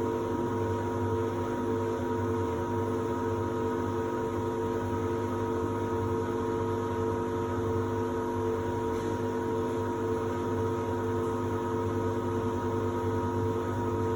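Samsung WD70T4047CE washer-dryer running in its drying stage: a steady, even hum made of several held tones, with no knocks or changes.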